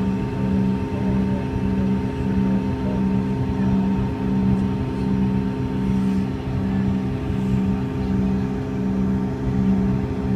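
Cabin noise of a Bombardier CRJ-200 airliner, its rear-mounted General Electric CF34 turbofans giving a steady hum with a low tone that pulses evenly a little faster than once a second.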